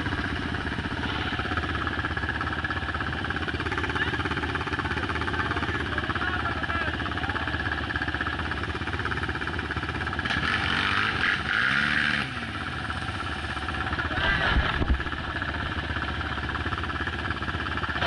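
Off-road motorcycle engines running, with one revving louder, its pitch rising and falling, about ten seconds in.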